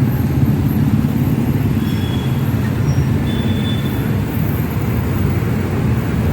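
Gas welding torch flame running with a steady low roar while heating a bent aluminium motorcycle mag wheel to soften it for straightening.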